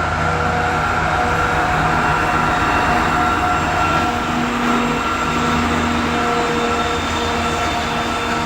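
Heavy loaded freight train behind a 2TE116 diesel locomotive passing slowly up a grade, a steady loud rumble of the locomotive and rolling cars with several steady whining tones over it.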